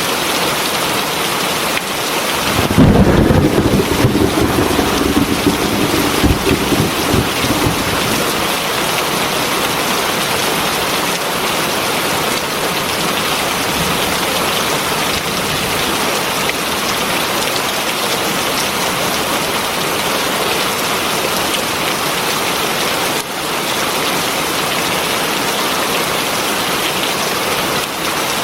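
Heavy rain falling steadily, with a clap of thunder about three seconds in that rumbles on for several seconds before fading back under the rain.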